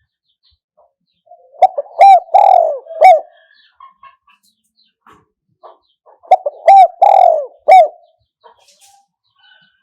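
Spotted dove cooing: two phrases of several short arching coos, each ending in a longer drawn-out coo, the first about a second and a half in and the second about six seconds in.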